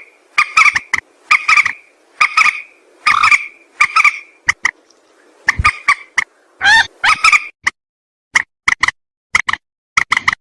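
Mandar sawah, a rail, calling: a series of repeated nasal notes about one to two a second, a short break partway through, then quicker, clipped notes toward the end.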